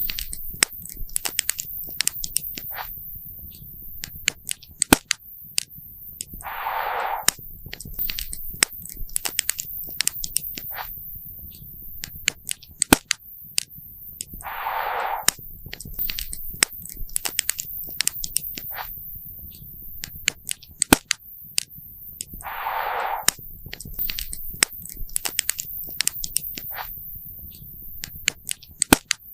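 Wood campfire crackling, with frequent sharp pops and snaps of uneven strength. A short hiss of about a second comes back roughly every eight seconds.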